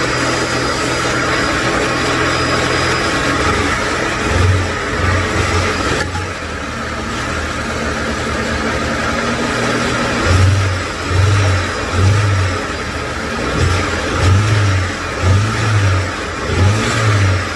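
The carburetted 1.6 four-cylinder engine of a Lada Niva, with a newly fitted supercharger, running. It is steady at first, then from about four seconds in its note swells and falls in a series of short pulses.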